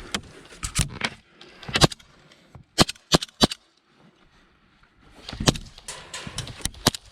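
Airsoft guns firing: scattered single sharp shots, then a quick string of shots near the end.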